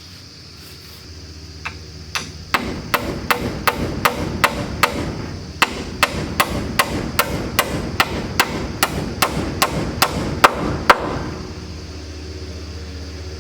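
A hammer striking wooden boards in a fast, even run of about three blows a second, with a short pause partway through. The blows stop about two seconds before the end. A steady engine hum runs in the background.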